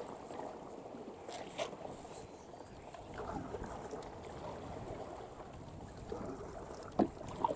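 Kayak paddling: the paddle dipping and splashing softly in the water, with a few light clicks and one sharp knock about seven seconds in.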